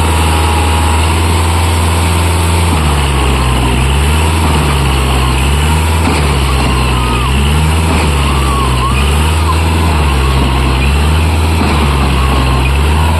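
Kubota MU4501 tractor's diesel engine running hard, its speed rising and falling in a regular cycle about once a second from about three seconds in, as it labours to pull a loaded trolley stuck in mud.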